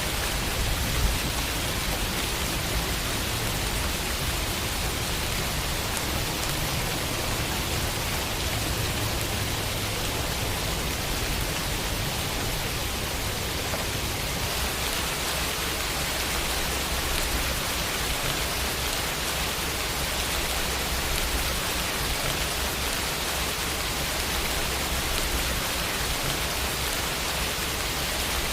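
Steady rain falling on a window: an even, unbroken hiss of rainfall with a faint low rumble beneath.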